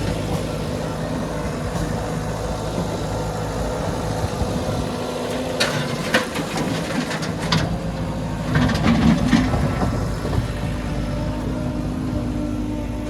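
Diesel engine of a heavy machine running steadily, with a few sharp clanks in the middle.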